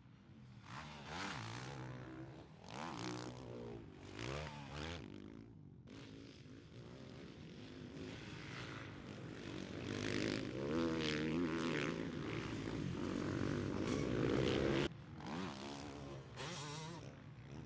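Several motocross bike engines revving up and down repeatedly as riders accelerate and shift around a track, getting louder and then dropping off sharply about fifteen seconds in.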